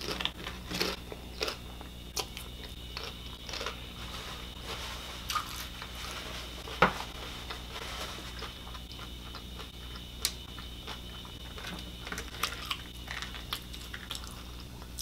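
Close-miked chewing of a crunchy hard corn taco shell: irregular small crunches and crackles, with a sharper crunch about seven seconds in and another about ten seconds in.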